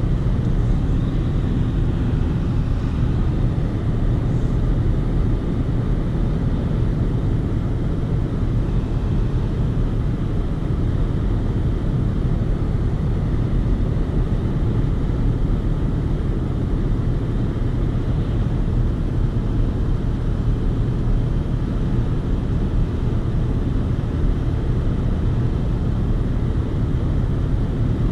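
Steady in-cabin driving noise of a 2020 Chevy Colorado pickup under way: a low road and tyre rumble with a constant engine hum, no shifts or other events.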